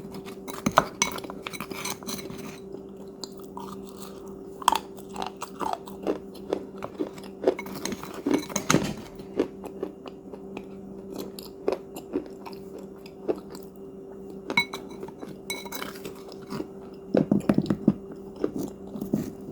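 Someone chewing crunchy cookies, with irregular sharp crunches and bites. A steady low hum runs underneath.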